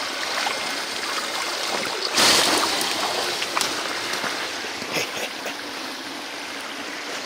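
Creek water running steadily, with a brief louder splash about two seconds in and a few small clicks later.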